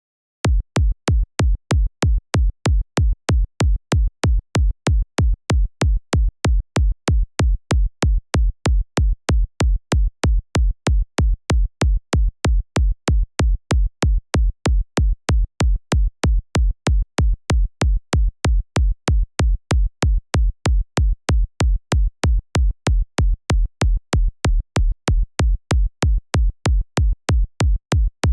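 Synthesized electronic kick drum, made in the Kick 2 plugin, looping in a steady four-on-the-floor pattern at about two hits a second. Each hit is a sharp click on top of a deep low thump. It starts about half a second in.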